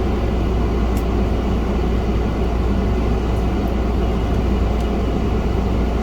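Steady low hum and rumble of background machinery, unchanging throughout, with a few faint light clicks.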